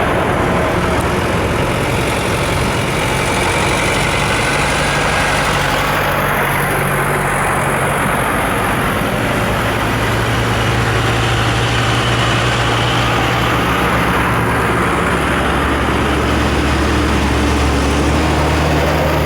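Diesel engines of farm tractors running as a line of tractors drives past, over a steady wash of road noise. One engine note gives way to a deeper one about three quarters of the way through as another tractor comes by.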